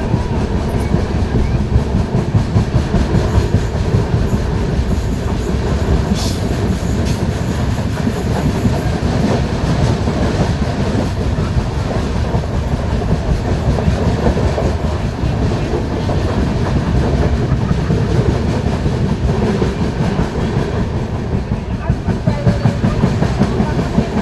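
Passenger train running along the track, a steady loud rumble with wheels clattering over rail joints, with a brief higher-pitched hiss or squeal about six seconds in.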